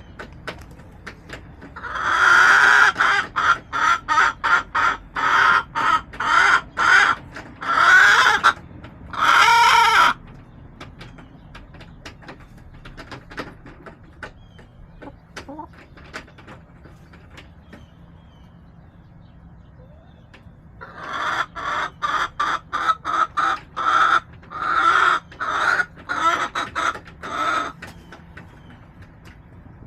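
Backyard hen cackling in two long runs of rapid, loud clucks, the first ending in two longer drawn-out calls, the second starting after a pause of about ten seconds.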